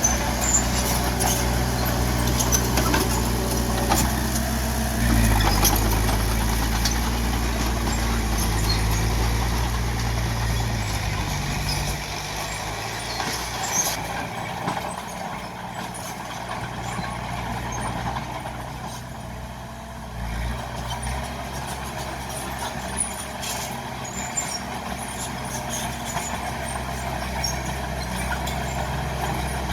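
Bulldozer's diesel engine working under load. It revs up about five seconds in and settles back around twelve seconds, with scattered metallic clicks and clanks over the engine note.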